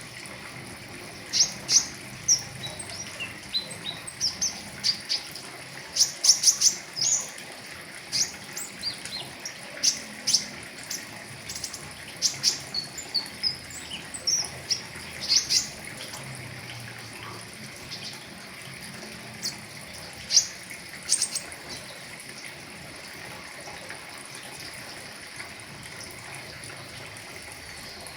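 A pentis raja (flowerpecker) calling in short, sharp, high chirps and quick chattering runs, thick through the first half and thinning to a few scattered chirps that stop about three quarters of the way in. A steady hiss like running water sits underneath.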